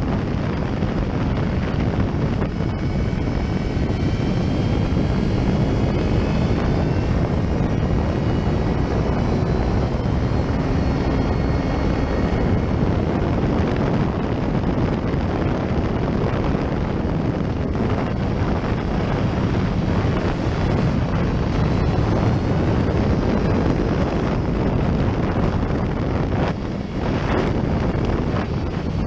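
Steady wind rush over a motorcycle-mounted microphone at riding speed, with the motorcycle's engine running under it.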